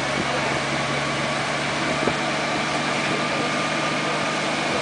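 Single-turbo Toyota Supra's straight-six engine idling steadily, with no revving.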